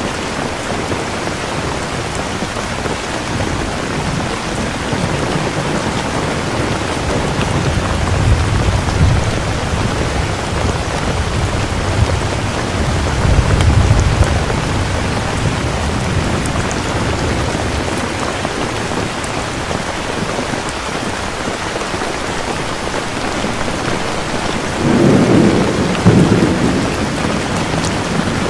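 Steady heavy rain with rolling thunder: low rumbles swell twice in the middle, and a louder clap of thunder comes near the end.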